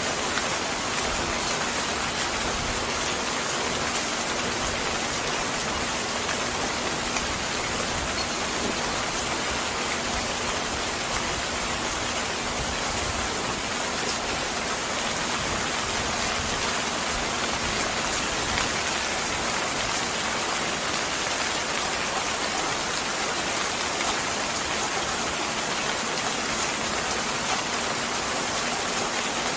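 Steady, even rainfall pattering on a surface, with a few faint ticks scattered through it.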